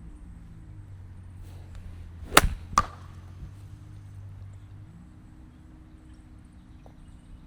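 Golf club striking a ball: one sharp crack, followed less than half a second later by a second sharp knock with a brief ring.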